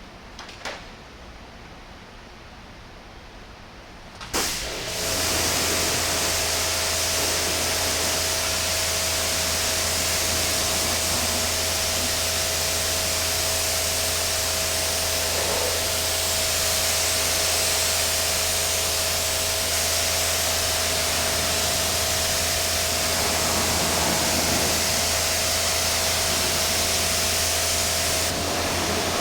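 An electric blower switched on about four seconds in, then running steadily with a constant hum, a steady whine and a loud rush of air, as used to blow-dry a freshly washed car.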